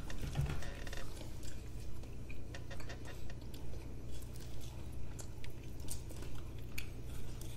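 Close-miked chewing of burgers and fries: a run of small, wet clicks and smacks from mouths working on food.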